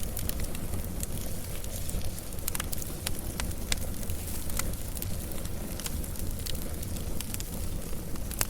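Wood fire crackling, with scattered sharp pops over a steady low rumble of the flames.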